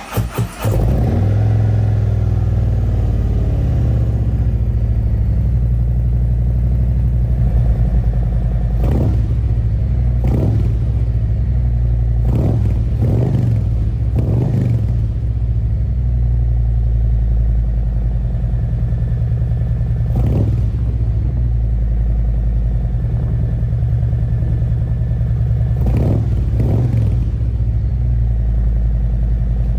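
Harley-Davidson Road Glide's Milwaukee-Eight V-twin starting through a Khrome Werks full exhaust run with no baffles. It cranks briefly, catches within the first second and settles into a steady idle. From about a third of the way in it is blipped several times, short rises in revs that fall straight back to idle.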